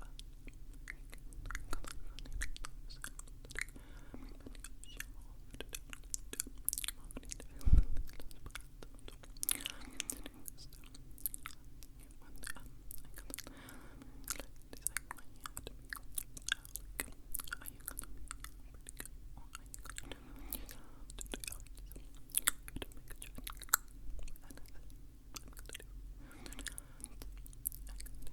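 Close-miked ASMR mouth sounds: wet tongue and lip clicks and smacks, scattered irregularly, with one loud low thump about eight seconds in.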